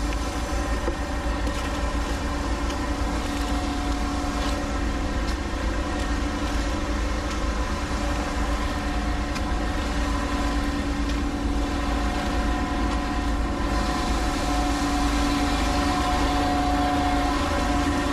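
An engine running steadily with a constant hum, growing slightly louder near the end.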